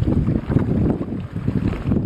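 Strong gusty wind buffeting the microphone: a loud, uneven low rumble that swells and drops.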